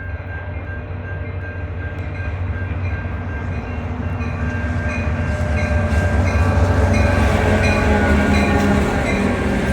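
Metra Milwaukee District North commuter train pulling into the station. A low rumble grows louder over about six seconds and then holds, with steady high tones running over it.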